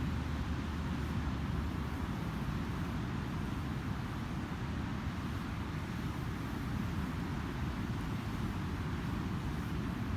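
Ocean surf breaking on a beach, heard as a steady low rumble with no distinct crackles or single events.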